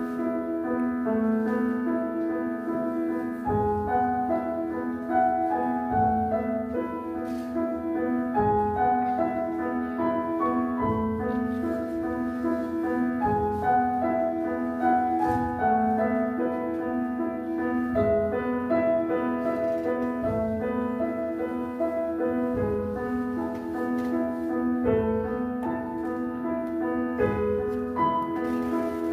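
Upright piano playing a gentle piece: a steadily repeating accompaniment figure under a melody, with a new bass note about every two and a half seconds.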